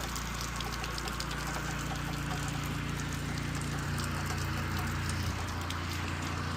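Pressure washer engine running steadily while water sprays from the wand onto the house, an even hiss over the engine's hum. The hum shifts in pitch about four seconds in and again just after five.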